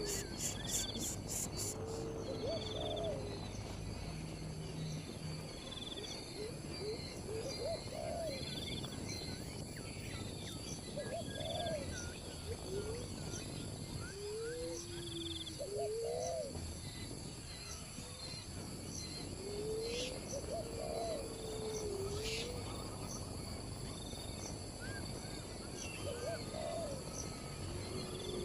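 Repeated low hooting calls, each a short note that rises and falls, coming every two to four seconds, over a steady high-pitched insect chorus.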